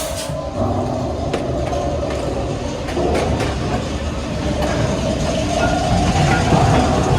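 Matterhorn Bobsleds ride vehicle rolling along its steel track: a steady rumble with a sharp clack at the start and scattered clacks after.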